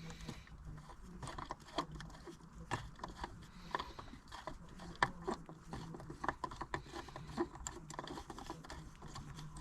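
Irregular light clicks and taps of a socket wrench working on the 10 mm bolts that hold a viscous cooling fan, over a faint steady low hum.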